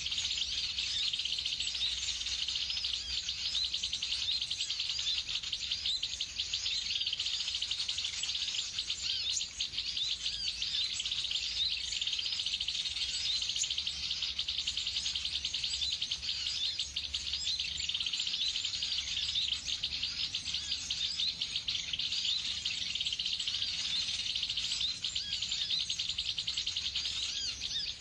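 Many small birds chirping rapidly and without a break, a dense overlapping twittering, with a faint low hum underneath.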